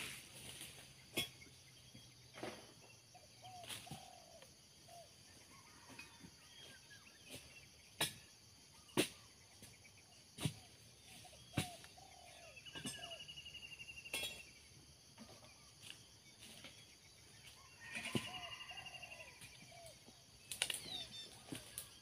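Birds calling, with short repeated calls and a fast trill twice in the second half. About nine sharp knocks come at irregular intervals and stand out above the calls.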